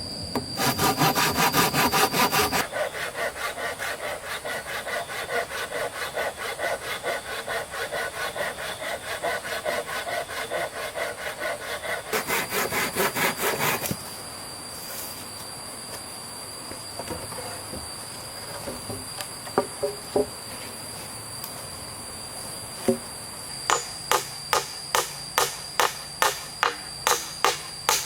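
Hand saw cutting through wood with quick back-and-forth strokes for about fourteen seconds. A few scattered knocks follow, then regular sharp blows on wood, about two a second, near the end.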